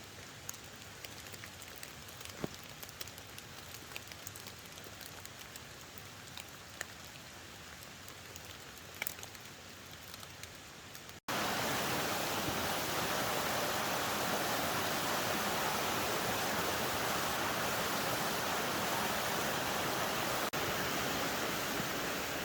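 Outdoor water noise in rain: first a faint steady hiss with scattered ticks of falling drops. About halfway through there is a sudden cut to a much louder, steady rushing of water, like a mountain creek or heavy rain.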